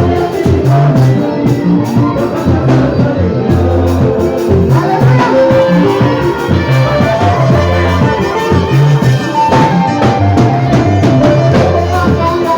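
Loud, lively Congolese gospel band music: a bass line of repeating low notes and a drum kit keeping a steady beat under singing and melodic instruments.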